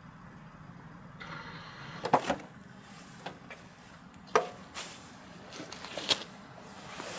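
A steady low hum of a vehicle engine idling stops about two seconds in, followed by a few sharp clunks and clicks of a vehicle door being handled, the loudest about two and four seconds in.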